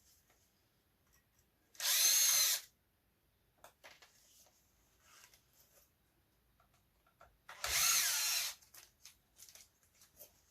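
Power screwdriver running twice in short bursts of under a second, about 2 s and 8 s in, with a wavering whine as it backs out screws; light clicks of handling parts in between.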